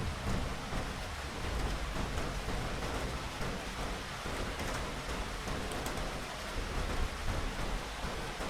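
Steady rain falling, with a low rumble of thunder underneath that is strongest in the first couple of seconds.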